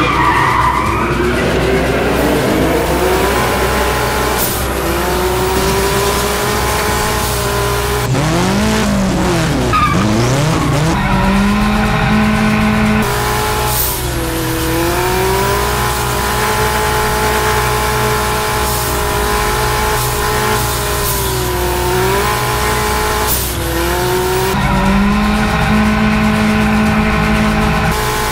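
Polaris Slingshot engine held at high revs while the rear tyre squeals and skids through a drift, the pitch dipping briefly and climbing back a few times, echoing off the concrete of a parking garage.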